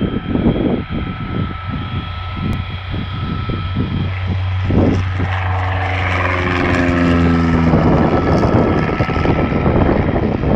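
Propeller-driven aircraft flying past, its engine note dropping in pitch about halfway through as it goes by.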